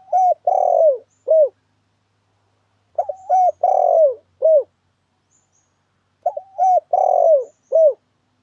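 Spotted dove (tekukur) cooing its song three times, about every three seconds. Each phrase is a quick pair of short coos, a longer falling coo, and one short closing note, with faint high twittering above each phrase.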